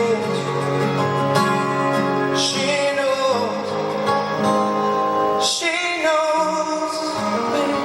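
Live acoustic pop music: two acoustic guitars playing under a male voice singing long, wavering held notes without clear words.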